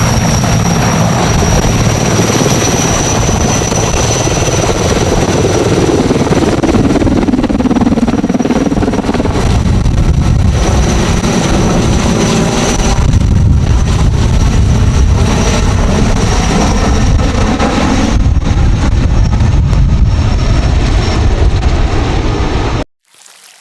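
Sikorsky S-64 Skycrane helicopter running close by: the heavy beat of the rotor over a dense rumble, with a high steady whine from its twin turboshaft engines. The rumble grows heavier in the second half, and the whole sound cuts off abruptly near the end.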